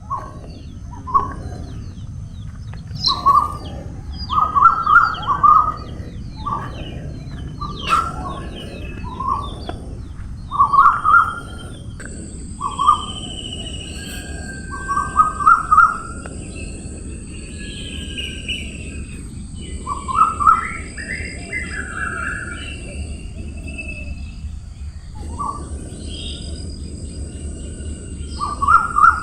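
Birds calling. One bird repeats a short phrase of a few quick notes every second or two, and other birds chirp higher in between, over a steady low rumble. A steady high hiss joins about halfway through.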